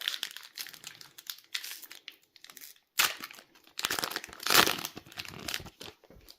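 Foil booster-pack wrapper crinkling as it is handled, with a sharp crackle about three seconds in and a longer, louder run of crinkling just after.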